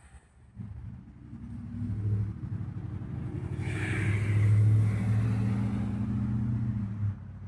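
A steady low engine-like hum that starts about half a second in, grows louder toward the middle and cuts off suddenly near the end.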